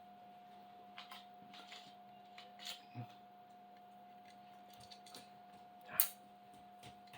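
Small clicks and rustles of hands fitting wires into small plastic wire connectors, with a sharper click about six seconds in. A faint steady hum runs underneath.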